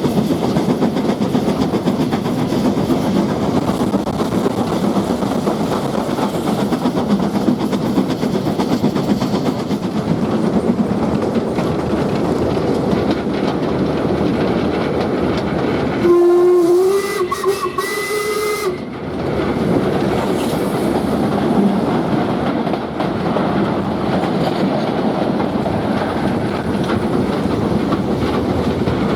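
Steam train running with steady wheel-and-rail noise, with a single blast of its steam whistle a little past halfway through, about two and a half seconds long and rising slightly in pitch.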